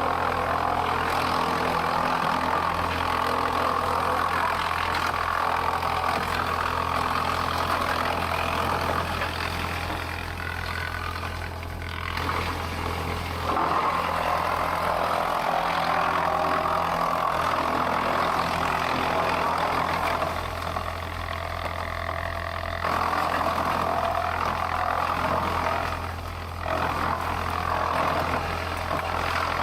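Sawmill machinery running steadily: a constant low engine or motor hum under a rushing, hissing band that dips three times for a second or few before picking up again.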